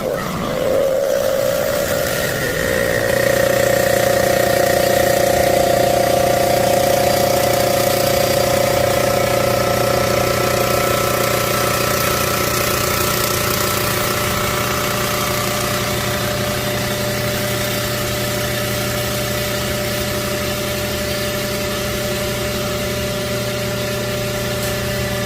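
Cylinder head surfacing machine running steadily as it takes a light cut across the deck face of a 3VZ-E cylinder head, a constant machine hum with several held tones. It gets louder about three seconds in and eases off a little past the middle.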